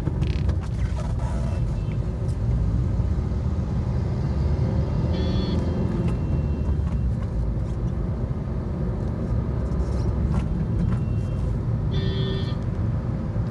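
Maruti Vitara Brezza accelerating from a stop through the gears, heard from inside the cabin: a steady low engine and road rumble, with the engine revving up and then dropping back after an upshift. Two brief high-pitched tones sound about five and twelve seconds in.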